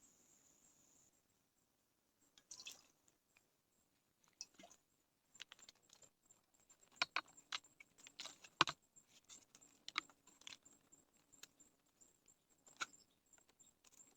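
Faint, irregular clicks and taps, a few sharper knocks among them, the sharpest about eight and a half seconds in.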